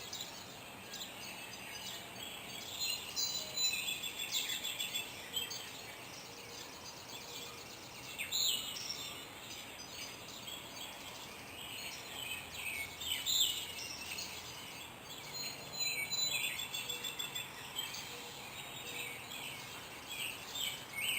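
Several songbirds singing at once: overlapping chirps and rapid trills at a range of high pitches, over a steady outdoor hiss.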